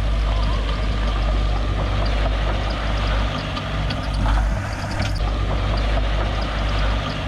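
Heavy diesel engine of construction machinery running steadily with a deep sound, with scattered light clicks and clanks over it.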